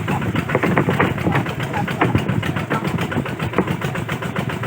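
Kubota RT140 single-cylinder diesel engine running, with a fast, even firing beat.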